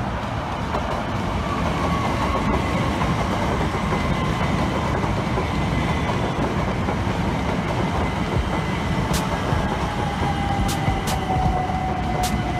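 c2c Class 357 Electrostar electric multiple unit, two units coupled, running past: a steady rumble of wheels on rail with a faint whine that falls slowly in pitch. A few sharp clicks come near the end.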